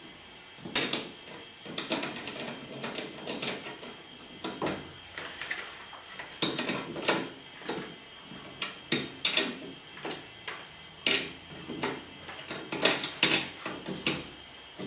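Irregular clinks and knocks of hard objects being handled, roughly one or two a second, like tools or hardware being picked up and set down.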